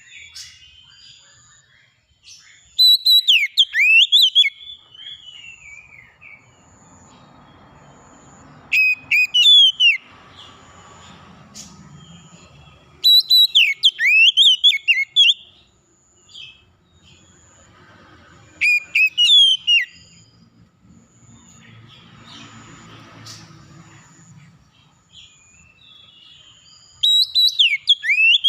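A songbird singing loud, fast whistled phrases of sweeping rising and falling notes, in five bursts of one to two seconds each, as on a bird-masters recording. A faint high note repeats about twice a second in the background.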